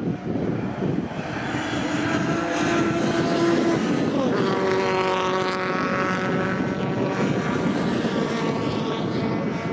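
Racing touring-car engines at high revs going past, several engine notes overlapping; about four seconds in, one engine note drops in pitch as a car goes by.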